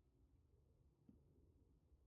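Near silence: a low steady hum, with one faint tick about a second in.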